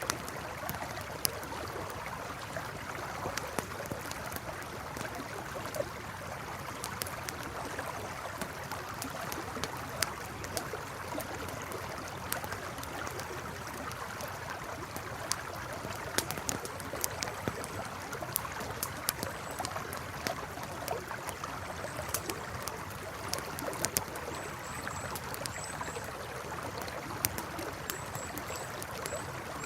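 Campfire crackling, with scattered sharp pops, over the steady rush of a flowing river. A few short high chirps come near the end.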